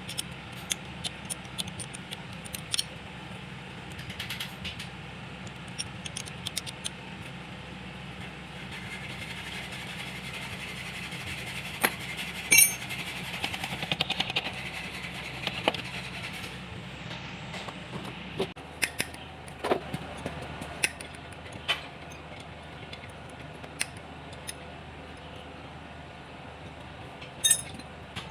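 Metal tools and engine parts clinking and tapping during work on a tractor engine, with scattered sharp clicks and a few louder clanks, over a steady low hum that changes about two-thirds of the way through.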